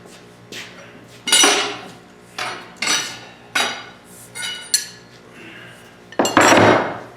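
Steel tyre irons clanking and scraping against the rim of a wire wheel while prying the tyre off, a series of about eight sharp metallic clanks with a longer, louder scraping clang near the end.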